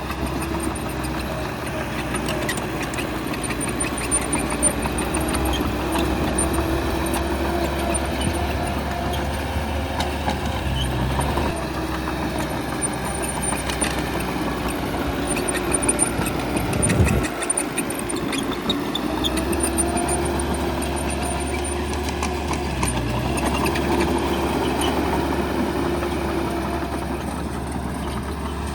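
Heavy diesel engine of a bulldozer working, its note rising and falling with the load, with scattered clanks and knocks. About seventeen seconds in there is a short loud moment and the deep rumble briefly drops away.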